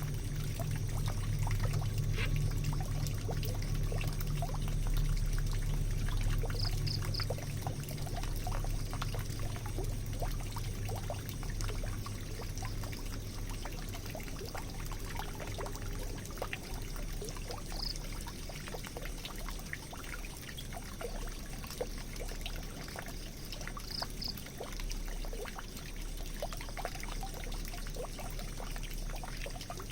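Water pouring and trickling steadily down a drain, with scattered drips and splashes. A low hum under it fades about halfway through, and there are a few brief high chirps.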